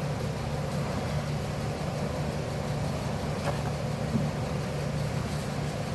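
Steady low mechanical hum, with a faint click about three and a half seconds in.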